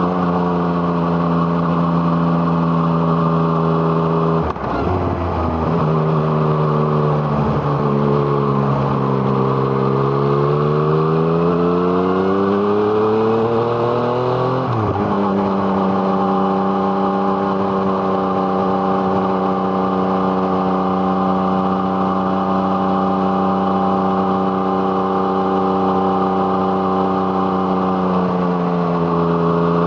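Yamaha MT-09's 847 cc three-cylinder engine through an Arrow Thunder exhaust, heard while riding. The note breaks off sharply about four and a half seconds in and sinks as the bike slows, then climbs steadily under throttle. It drops suddenly at a gear change about fifteen seconds in and holds steady revs from there, with a slight dip near the end.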